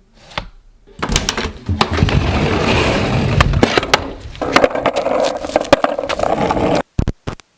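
Skateboard wheels rolling over pavement: a loud, rough rumble with many clicks and rattles. Near the end the sound cuts out abruptly a few times and then goes silent, as a faulty microphone jack drops the audio.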